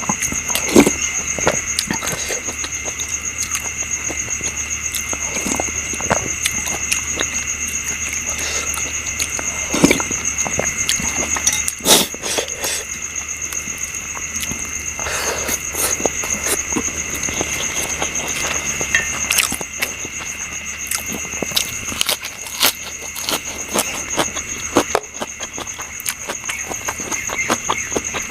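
Eating sounds: chewing, with scattered clicks and knocks of food and dishes, the sharpest a few seconds apart. Under them, a steady high chirring of insects runs throughout.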